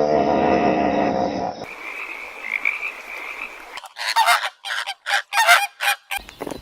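A run of animal calls cut together: a long held call ends about a second and a half in, then a stretch of steady trilling with a high whine, then a rapid series of about eight short loud honking calls.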